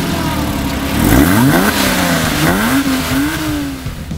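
Porsche Cayman's flat-six engine revving while the car stands still: a sharp rev about a second in, then two more rises and falls in pitch before it drops back.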